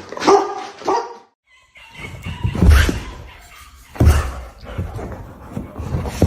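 A dog barking, with loud separate barks, the strongest about three and four seconds in.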